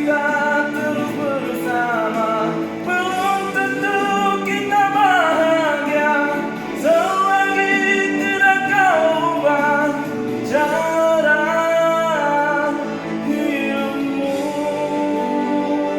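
A song: a solo voice singing long held notes that slide between pitches, over guitar accompaniment.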